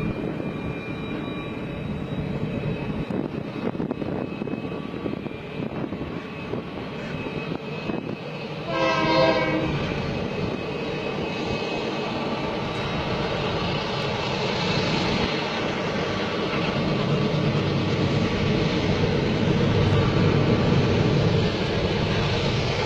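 Freight train running with a steady rumble that builds over the second half, and one short horn blast about nine seconds in.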